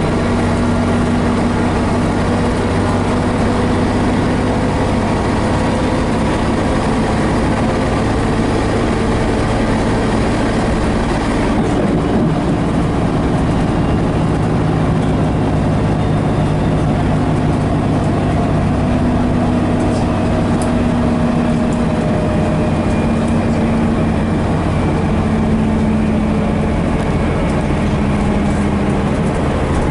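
Diesel engine of a 1976 Scania BR111H double-decker bus with MCW Metropolitan bodywork, running under way; its note is steady with a pitch that drifts gently up and down.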